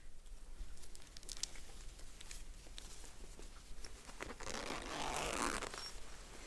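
A bag being opened and handled: a zip and rustling of its fabric, with scattered small clicks, the rustling loudest a little past the middle.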